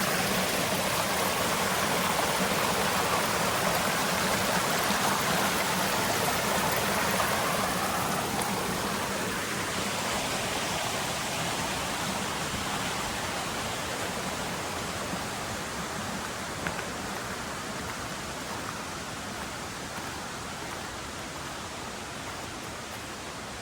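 Mountain river water rushing in a steady, even flow that slowly grows fainter after about eight seconds.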